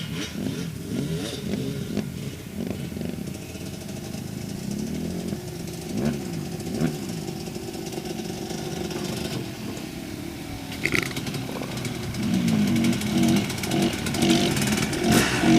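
Dirt bike engine revving up and down as it is ridden, its pitch rising and falling repeatedly and growing louder over the last few seconds.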